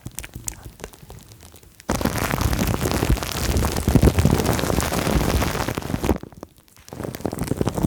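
Dense crackling and crinkling of plastic film and foam as an ASMR trigger. It starts suddenly about two seconds in after a few scattered clicks, stops briefly near the end, then starts again.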